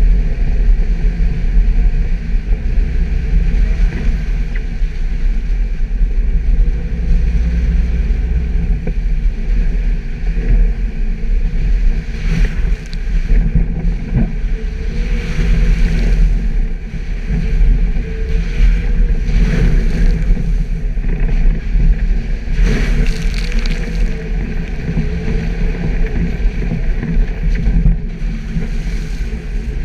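Suzuki Jimny's engine running as it drives off-road: a steady low rumble. In the second half, several short bursts of rushing noise come over it.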